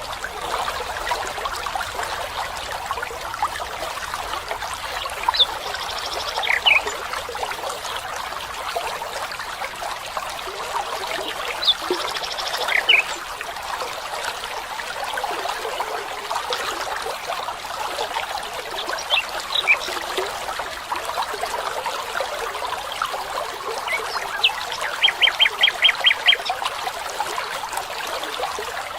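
A stream trickling steadily, with a few short bird calls scattered through it and, near the end, a quick run of about seven even notes.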